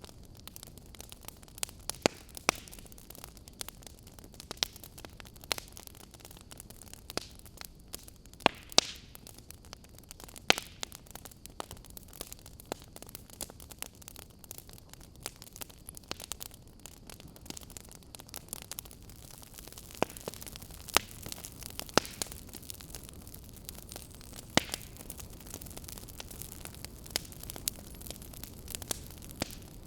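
Wood fire crackling in a fireplace: irregular sharp pops and snaps over a steady low hiss, the hiss growing a little louder about two-thirds of the way through.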